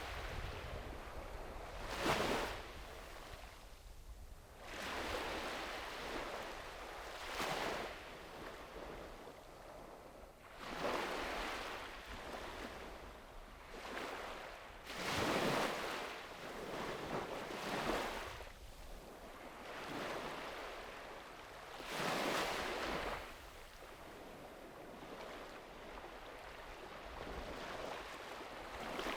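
Small sea waves breaking and washing up the beach one after another, a swell of surf about every two to three seconds, over a low wind rumble.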